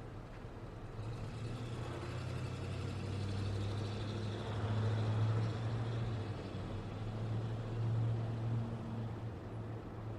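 Road traffic going by: vehicles passing with a low engine hum and tyre noise, swelling about a second in, loudest twice in the middle and later, then easing off.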